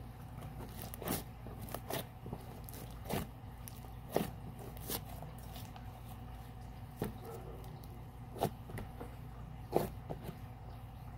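Very sticky slime being squeezed and pulled apart by hand, giving irregular short sticky pops and clicks about once a second over a steady low hum.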